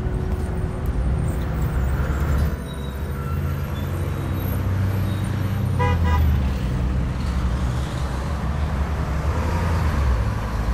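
Street traffic: a steady rumble of passing vehicles, with a brief horn toot about six seconds in.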